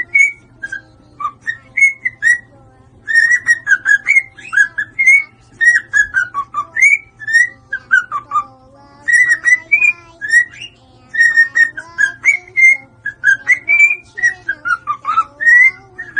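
A bird whistling rapid phrases of short, sliding notes, some rising and some falling, with brief pauses between the phrases.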